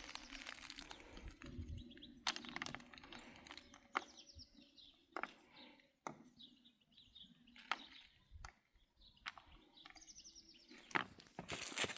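Birds calling outdoors in short, high, falling chirps, heard a few times, over scattered clicks and knocks.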